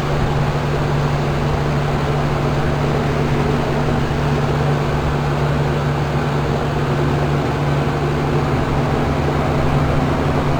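Heat pump outdoor units running steadily in heat mode: a constant compressor hum with the whoosh of the outdoor fans. The iced-up Lennox keeps running and has not gone into defrost.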